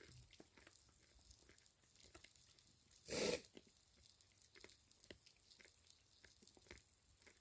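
Faint crunchy chewing of a mouthful of wasabi peas, with scattered small crunches and clicks and one short louder rush of noise about three seconds in.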